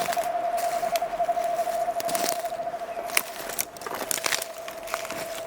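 A long, even, rapidly pulsed trill from a calling animal holding one mid pitch. Scattered crackles and snaps run through it, typical of steps on dry forest litter.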